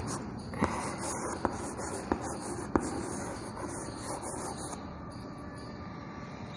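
Five light, sharp clicks at uneven intervals of about half a second to a second over the first three seconds, then only a faint steady hiss.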